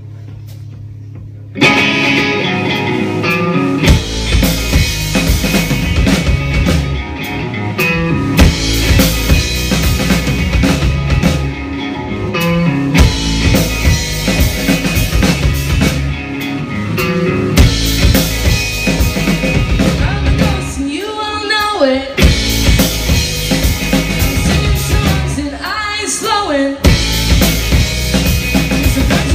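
Live rock band playing: after a held low note, the full band comes in suddenly about a second and a half in, with drum kit, guitar and bass, the bass growing heavy a couple of seconds later.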